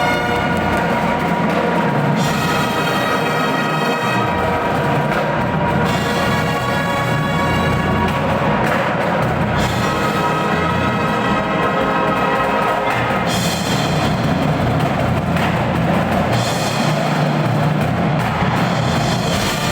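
Marching band playing: held chords that change every couple of seconds over drums and percussion.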